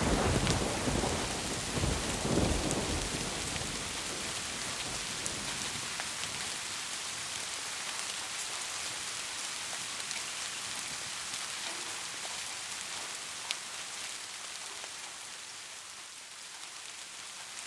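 Steady rain with the tail of a thunder rumble that fades over the first few seconds, swelling once more about two seconds in, then rain alone. One sharp tap of a drop near the end.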